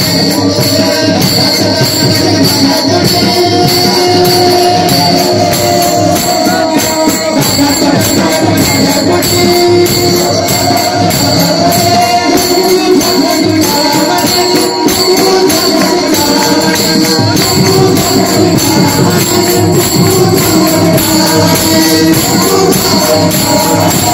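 Pakhawaj drumming in a fast, steady rhythm, with small hand cymbals clashing on every beat and a wavering melody line carried over them.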